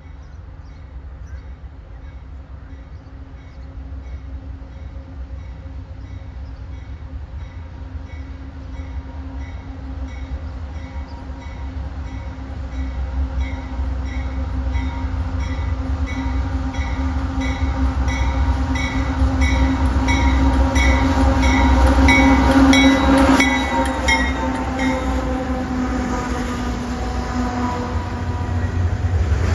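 A train approaching, its engine rumble and steady tones growing louder and dropping in pitch about two-thirds of the way through as it draws level. A bell dings at an even rate through most of it. A loud rush of the train passing starts right at the end.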